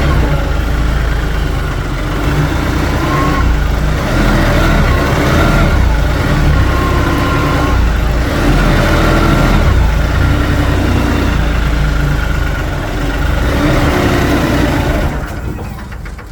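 Kioti NS5310 HST tractor's diesel engine working hard while the hydraulic tree puller rocks a tree back and forth, with a whine that rises and falls over and over. Near the end the engine winds down and stalls under the load.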